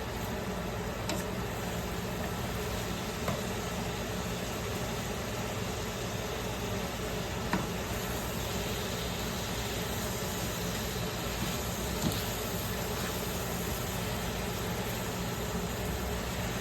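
Steady mechanical hum and hiss, with a few light clicks about 3, 7½ and 12 seconds in.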